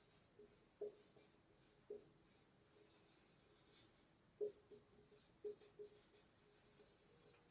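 Faint writing: light scratching strokes with four soft taps of the pen against the writing surface.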